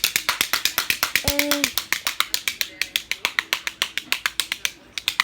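A rapid, even run of sharp clicks, about eight a second, with a brief voice-like hum a little over a second in.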